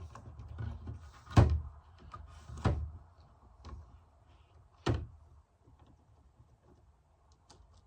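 Three sharp knocks, with a few fainter clicks between them, as a Kreg pocket-hole jig and workpieces are handled and set down.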